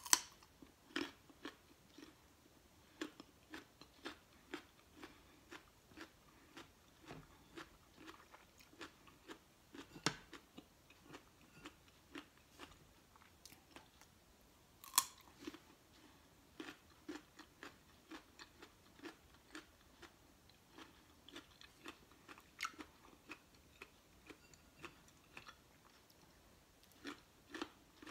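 Raw carrot sticks bitten and chewed close to the microphone: crisp crunches about two a second, with a few louder bites, at the very start and about ten and fifteen seconds in.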